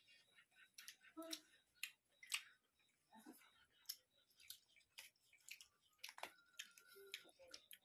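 Faint chewing and wet mouth clicks of people eating pork curry and rice with their hands, coming as irregular sharp clicks.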